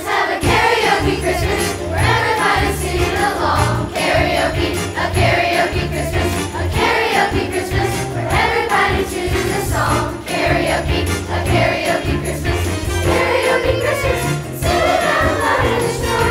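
Chorus singing a Christmas song over band accompaniment with jingle bells and a steady bass beat.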